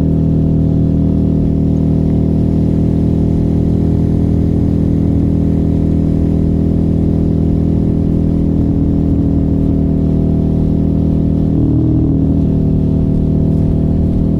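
Motorcycle engine with an aftermarket exhaust running at steady revs. The note briefly changes pitch about three-quarters of the way through.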